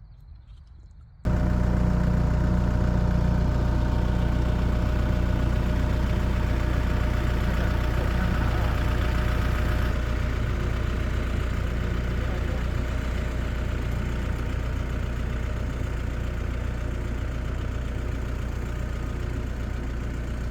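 Tractor engine running steadily at a constant speed. It comes in abruptly about a second in and eases slightly in level about halfway through.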